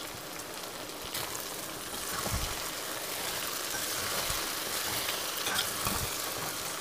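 Okra sizzling as it fries in an open steel pan, a steady hiss that grows a little louder about two seconds in, while a slotted spatula stirs it with a few soft knocks against the pan.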